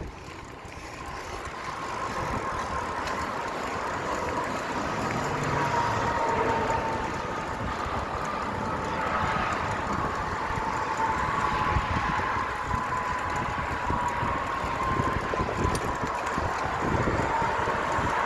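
Steady rushing wind and road noise on a camera carried while riding a bicycle, swelling over the first few seconds, with a faint whine that drifts slowly in pitch.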